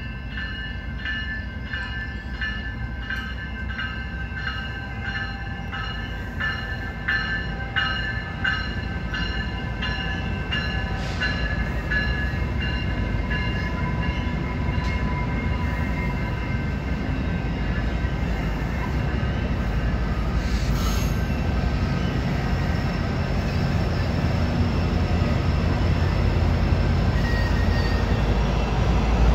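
Exo commuter train of bilevel coaches rolling past, its wheels rumbling on the rails and growing steadily louder as the diesel locomotive at the rear draws near. A high ringing repeats about twice a second for the first dozen seconds, then fades out.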